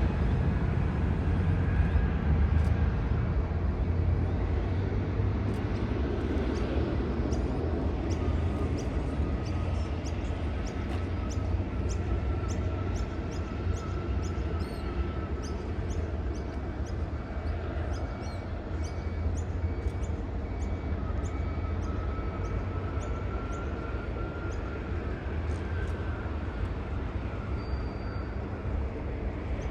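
Jet airliner engines rumbling at a distance, a steady low noise that eases off slowly, with a faint whine that rises slowly in pitch. Short high chirps, about two a second, run over it for most of the time.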